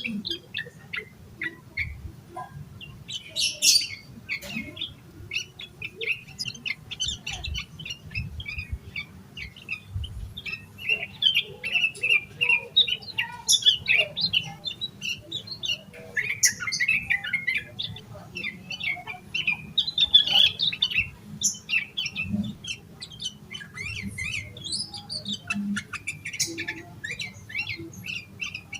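Sooty-headed bulbul (trucukan) singing excitedly in full voice: a fast, unbroken run of short chattering notes.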